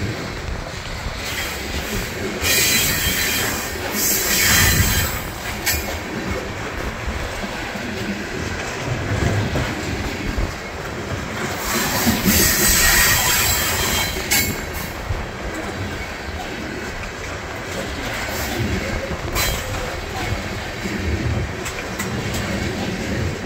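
Freight train of oil tank cars rolling past close by: a steady rumble and clatter of steel wheels on the rails, with high-pitched wheel squeal about three seconds in and again around twelve seconds in.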